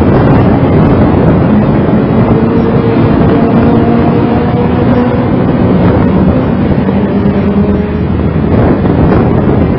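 Mitsubishi FTO GPX's 2.0-litre V6 running at a light, steady throttle while the car rolls along at low speed, under heavy rushing road and wind noise.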